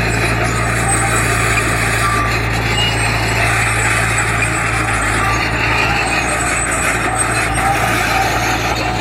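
Heavy diesel construction machine running steadily, its engine drone under a continuous mechanical din of rattling and scraping.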